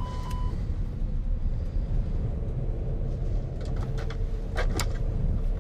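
Steady low rumble inside a gliding airliner's cockpit. A steady warning tone stops about half a second in, and a few sharp clicks come near the end.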